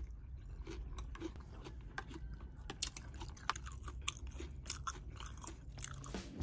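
Close-up eating sounds: a person chewing food, with scattered light clicks of stainless steel chopsticks against a metal pot.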